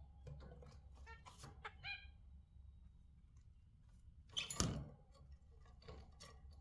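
Budgerigars chirping in short calls, with small clicks and taps in the cage and one louder thump about four and a half seconds in.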